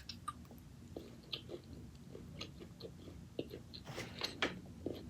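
A person chewing food close to the microphone: soft smacking and small crunchy clicks, a little busier and louder about four seconds in.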